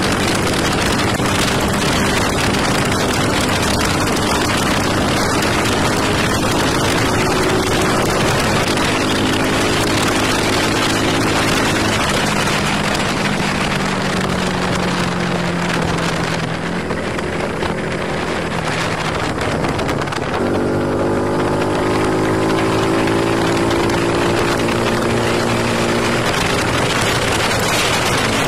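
Motorcycle engine running under way, with heavy wind rush on the microphone. Around the middle the engine note falls as the rider rolls off, then it climbs again a few seconds later as the bike accelerates.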